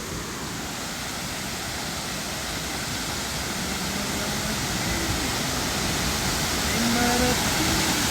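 Rushing water of a waterfall running high with flood water: a steady roar of noise that grows steadily louder.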